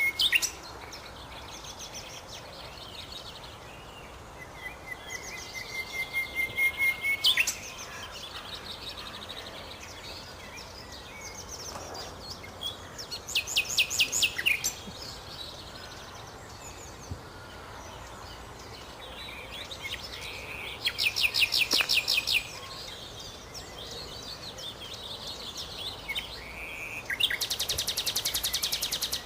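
Common nightingale singing in separate phrases a few seconds apart: a series of whistled notes that grows louder, rapid runs of repeated notes, and a fast dry trill near the end.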